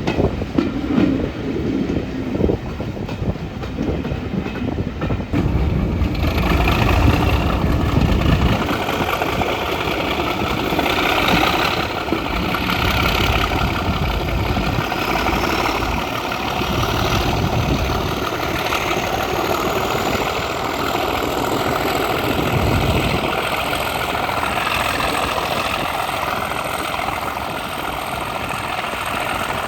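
Class 37 diesel locomotive's English Electric V12 engine working hard under power, heard from the train behind, with a whine that climbs slowly in pitch from about six seconds in as it pulls the train along. Carriage wheels click over the rail joints.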